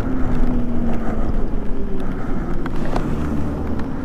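Daymak Pithogs Max electric bike riding through wet slush: wind rumbling on the microphone over tyre noise, with a faint steady tone that fades out over the first two seconds and a few light clicks.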